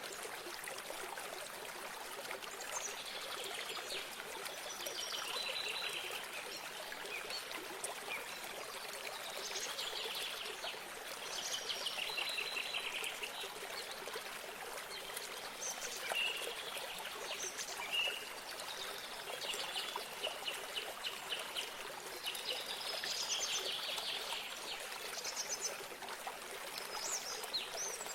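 Water trickling and running steadily, like a small stream or spring, with birds singing phrases of trills and chirps every few seconds over it.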